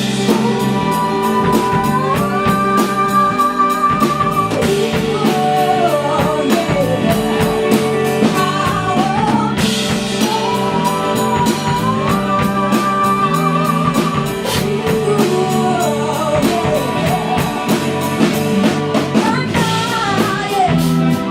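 Live band performing a rock song: a woman's lead vocal holding long notes with vibrato, over guitar and a drum kit keeping a steady beat.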